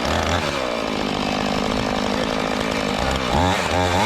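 Gas chainsaw running at a steady pitch, then revving up and down near the end.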